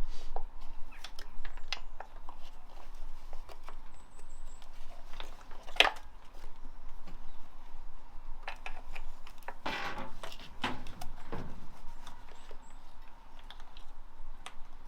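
Scattered clicks and clinks of hand tools and metal engine parts being handled during engine reassembly, with a sharper knock about six seconds in and a short rattle around ten seconds in.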